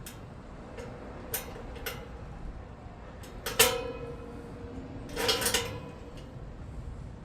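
Metal gate hardware and tools being handled: a few sharp clicks, a loud ringing knock about halfway through, and a short metallic clatter soon after.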